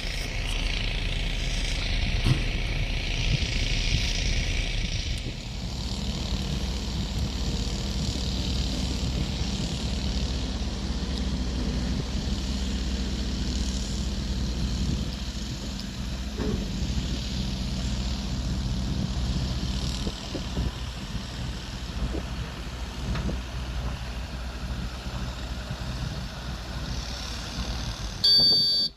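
Volvo 210E excavator's diesel engine running steadily at work, with a hiss over it for the first five seconds or so. Near the end comes a brief, loud high-pitched sound, then everything cuts off suddenly.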